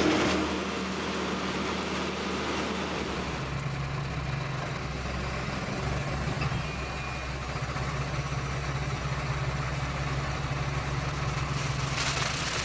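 Machine grape harvester's engine running steadily, a continuous low hum with a slight shift in pitch about three and a half seconds in.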